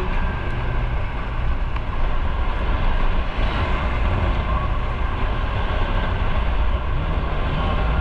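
Motorcycle under way: steady engine and road noise with a heavy low rumble, and wind rushing over the microphone.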